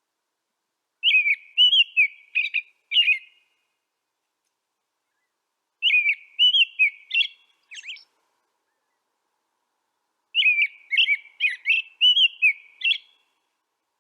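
A songbird singing three short warbled phrases, each lasting about two to three seconds, spaced about five seconds apart. Each phrase is a run of quick, whistled rising and falling notes. Between the phrases there is complete silence, with no background ambience.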